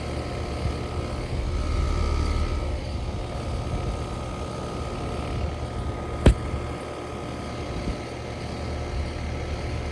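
Outdoor motor-driven equipment running with a steady low hum. One sharp click comes about six seconds in.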